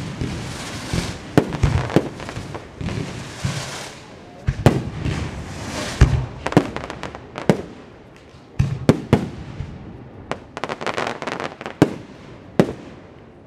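Fireworks display: aerial shells bursting in a string of sharp bangs, with crackling and hissing between them. The bangs thin out and the crackle fades near the end.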